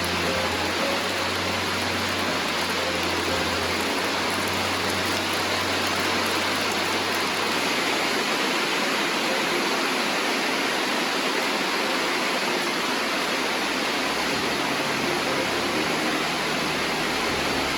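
Heavy rain pouring down, a steady, loud, unbroken hiss. A low hum runs underneath for roughly the first half and then stops.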